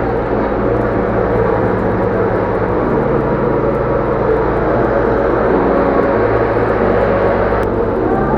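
Steady engine drone with a dense low hum and a noisy wash above it, its pitch shifting a couple of times.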